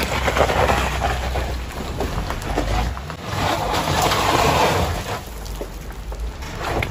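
Two SUVs climbing a steep wet gravel slope, an H9 towing a Zotye on a rope: engines running under load with tyres crunching over the loose gravel. The noise swells about halfway through.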